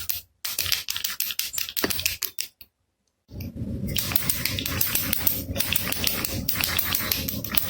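Baby rattle shaken fast, its beads clicking in a rapid, dense rattle. It stops briefly about a third of the way in, then resumes as a fuller, continuous rattle.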